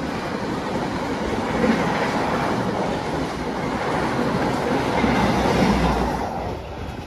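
Passenger train passing at speed along the tracks, its wheel and rail noise loud and steady, then falling away near the end as the last cars go by.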